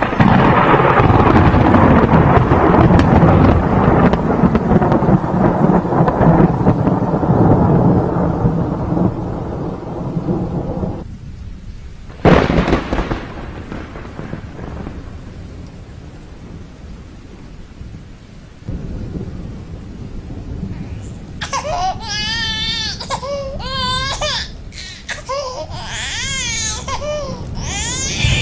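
Rain and rolling thunder, loud for the first ten seconds or so, with a sharp thunderclap about twelve seconds in. Over the quieter rain in the last third, a newborn baby cries in wavering, warbling wails.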